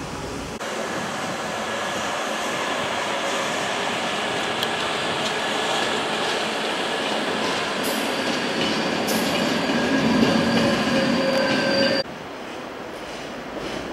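Train running on the station tracks: a loud rushing rail noise with several steady whining tones over it, growing louder toward the end and cutting off abruptly about twelve seconds in.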